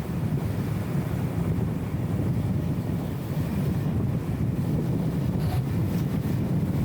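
BMW E34 M5 Touring's straight-six engine and road noise while driving at a steady pace: an even, low rumble with no change in pitch, dulled and muffled by the camera's wind filter.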